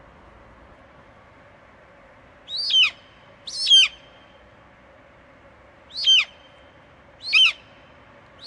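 An eagle screeching: four short calls, each sliding down in pitch, the first two close together about two and a half seconds in and two more around six and seven seconds, with another just starting at the end. A steady faint hiss runs beneath.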